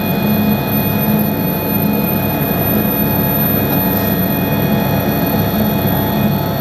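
Helicopter running steadily: a continuous engine and rotor drone with steady whining tones over it.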